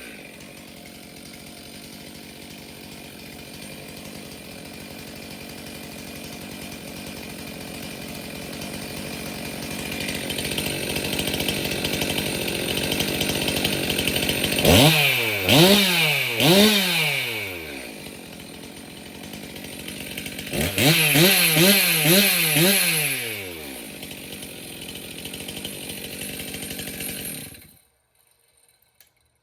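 Stihl MS362 M-Tronic two-stroke chainsaw idling on a test run after its fuel solenoid and fuel filter were replaced. About halfway through it is blipped up to high revs three times, and a few seconds later in a quicker run of blips, falling back to idle each time. It stops near the end.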